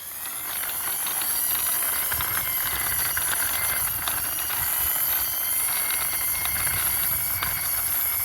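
Toy car pushed along the ground by hand, its plastic wheels rolling with a steady, hissy rumble that builds up in the first second and holds evenly.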